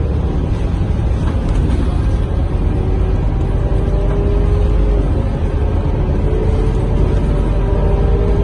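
Scania K230UB bus heard from inside the cabin while driving: its rear-mounted diesel engine and drivetrain give a deep, steady rumble. Over it runs a whine that slowly rises in pitch as the bus gathers speed.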